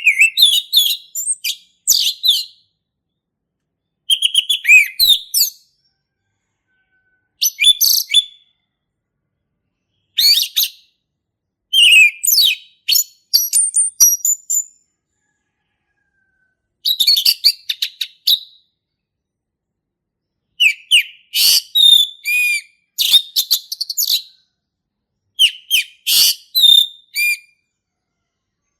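Male orange-headed thrush singing: about ten short, varied phrases of high whistles and chirps, with pauses of a second or two between them.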